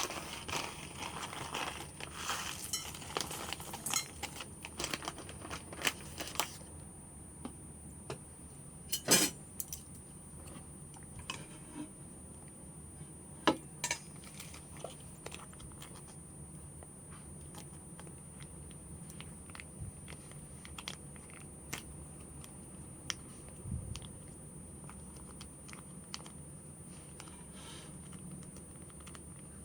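Close-miked eating-show handling sounds. For the first six seconds or so there is dense crinkling and rustling, like packaging. After that come scattered clicks and taps, a few of them much louder.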